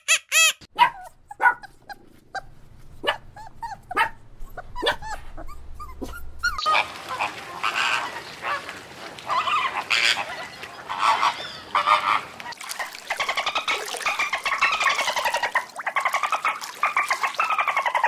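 A run of animal calls: a few short squeaks and clicks at first, then from about seven seconds in a dense stretch of repeated honking calls, typical of Canada geese.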